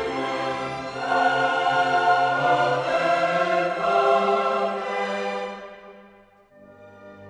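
Classical choral music with orchestra, voices and strings holding long chords, fading away about six seconds in before a quieter string passage begins.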